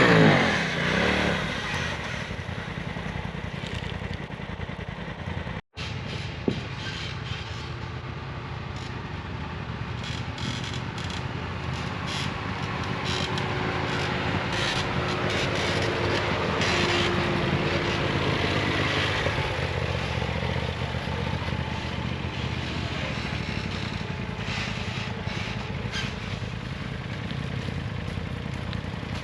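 Side-by-side UTV engine revving hard at the start, then running steadily as the machine crawls over steep off-road ground.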